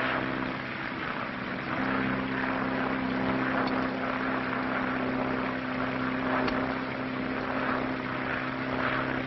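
Steady drone of a propeller airplane's engines in flight, an even hum over a rushing noise. The hum grows a little fuller about two seconds in.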